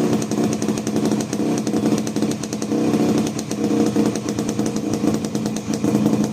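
Yamaha RX-King's single-cylinder two-stroke engine running steadily after a cold start, its exhaust giving a fast, even, rattly pulse.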